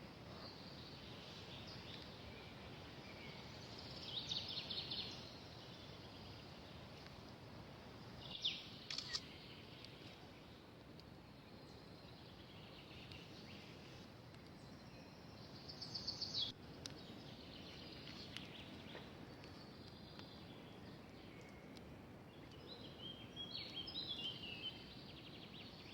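Birds singing faint short phrases of quick high trilled notes, four times, over a steady soft outdoor hiss.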